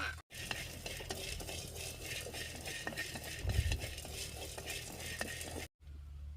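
Food being stirred in a pot or bowl with a utensil: steady scraping with many small clicks of the utensil against the vessel, and a low thump about three and a half seconds in.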